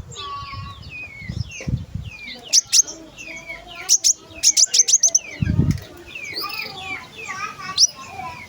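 A small songbird sings a rapid, varied run of sharp high chirps and sweeping whistled notes, with hardly a pause. A few brief low thuds sound among the notes, the longest about five and a half seconds in.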